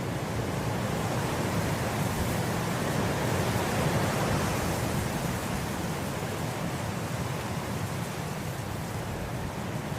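Wind blowing through grass: a steady rushing noise that swells into a gust about four seconds in and slowly eases off.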